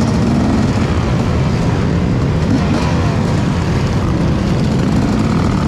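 Dirt bike engines running on the move under heavy wind noise, with the engine pitch rising and falling now and then.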